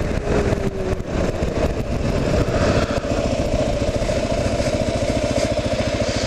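2009 Kawasaki KLR 650's single-cylinder engine running on the move, heard from a bike-mounted action camera. Its beat is uneven at first, then settles into a steady, even firing rhythm about three seconds in.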